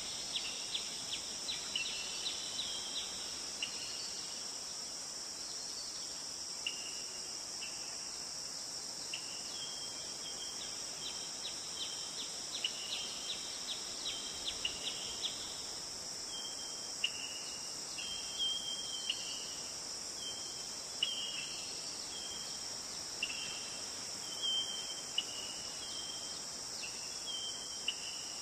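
Steady rush of a forest river stream, with birds chirping in short, repeated high notes over it, more densely in the first half.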